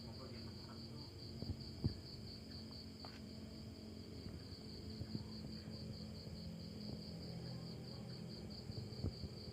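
Crickets chirping steadily, a high, evenly pulsing trill, over low background noise, with a few faint knocks, the sharpest about two seconds in.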